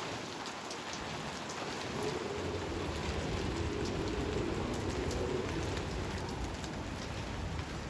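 Steady rain falling during a thunderstorm, with a low rumble of distant thunder swelling about two seconds in and easing near the end.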